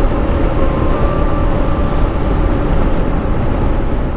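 Motorcycle running at a steady cruise, its engine note nearly constant under a heavy rush of wind noise.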